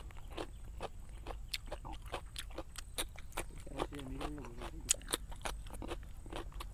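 Close-miked chewing of a mouthful of rice and pork, with frequent wet smacking clicks of the lips and mouth. A short low hum from the eater comes about four seconds in.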